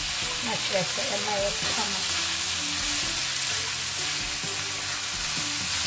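Diced lamb, carrots and onions sizzling steadily in a stainless steel pan over raised heat, stirred with a silicone spatula.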